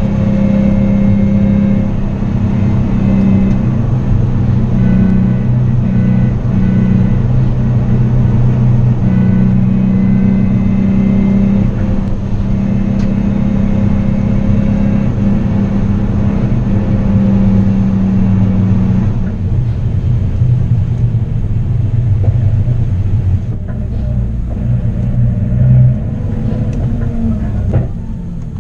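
Nissan 370Z's 3.7-litre V6 heard from inside the cabin, running steadily at low revs on part throttle. Near the end the engine note drops as the car slows.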